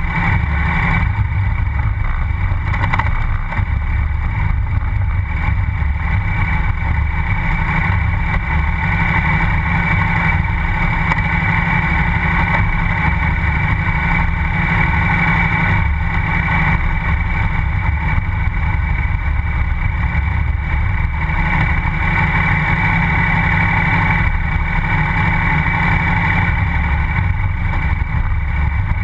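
KTM 990 SMR's V-twin engine running at a steady pace, heard close to its exhaust silencer.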